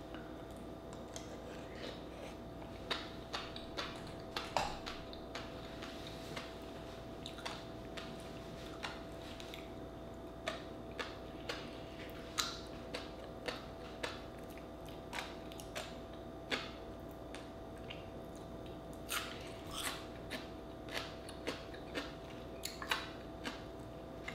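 Close-miked wet chewing of a raw oyster topped with fish roe, with irregular sharp little clicks and pops, a few a second. A faint steady hum sits underneath.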